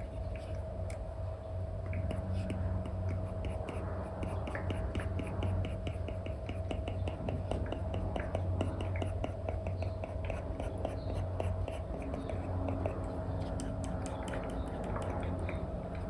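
Apple Pencil nib scratching and tapping on an iPad's paper-like screen protector in quick short strokes, a dense run of small ticks, over a steady low hum.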